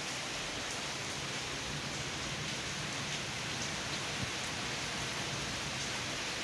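Rain falling steadily in a strong wind: an even hiss, with a few sharper taps of drops.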